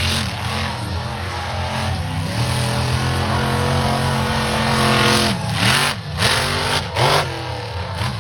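Monster truck engine revving hard: quick throttle blips that rise and fall, a held high-rev pull for a few seconds, then more blips.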